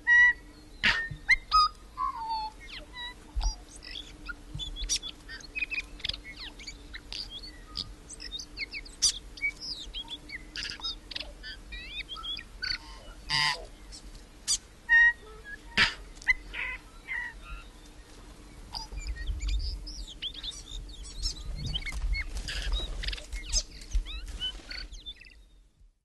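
Forest birds calling: many quick, varied chirps and whistles with sharp clicks, over a faint steady hum. A low rumble comes in a few seconds before the sound fades out at the end.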